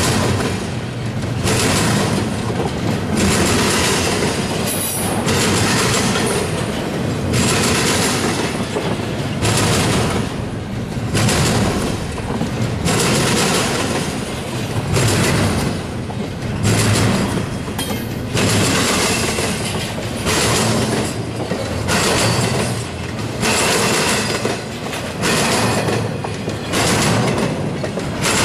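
Freight train of double-stack container cars and trailer flatcars rolling past close by: steel wheels on rail in a steady rumble with clickety-clack, swelling and fading about once a second as each car's wheel sets go by.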